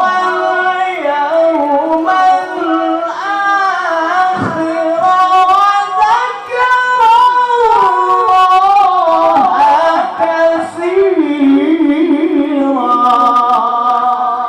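A male qari reciting the Quran in a high voice in melodic tilawah style: one long ornamented phrase that slides between pitches and holds long notes, ending on a long steady note.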